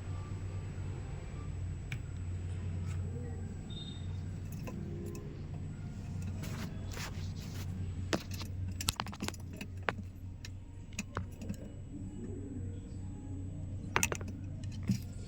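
Scattered light clicks and jingles, coming more often in the second half, over a steady low hum.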